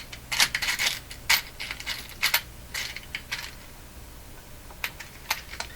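Small metal washers and hardware clinking and rattling as they are picked through by hand: a dense flurry of clicks for about three and a half seconds, then a few single clicks near the end.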